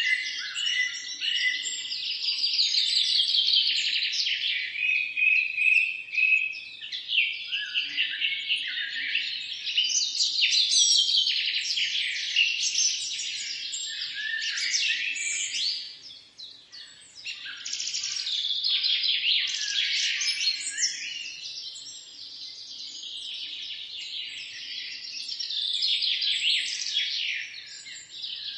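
A dense chorus of many small songbirds chirping and trilling over one another, with a short lull a little past halfway.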